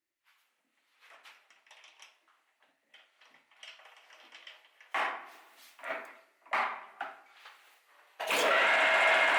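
Objects being handled and scraped, with three sharper knocks, then about eight seconds in a motor-driven tool starts suddenly and runs steadily with a whining hum.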